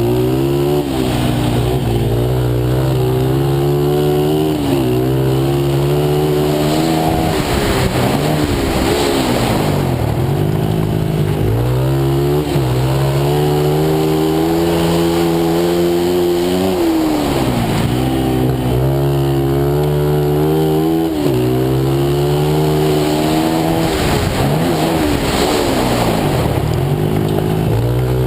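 Pit bike engine being ridden hard, climbing in pitch as it accelerates, holding, then dropping as the throttle closes, over and over through the laps.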